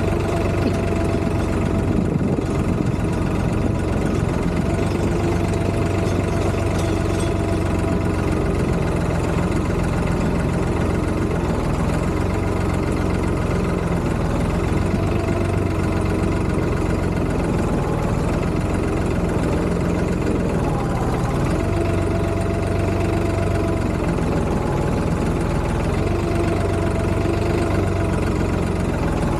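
Tractor's diesel engine running at a steady, unchanging speed.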